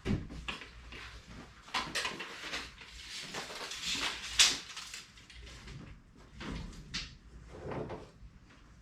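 Irregular knocks, thumps and scraping from duct and furnace parts being handled and fitted, with the loudest sharp knock about four and a half seconds in.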